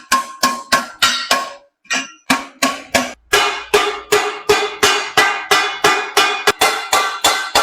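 Hand hammer striking sheet metal in a steady rhythm, about three blows a second, each blow ringing briefly, with a short pause about two seconds in.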